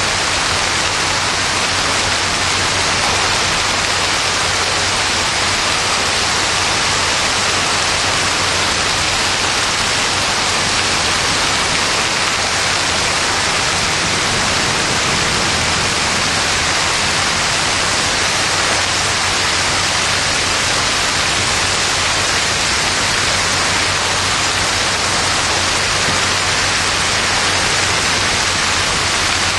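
Heavy rain mixed with hail pouring down onto pavement and wet ground, a steady, loud hiss that doesn't let up.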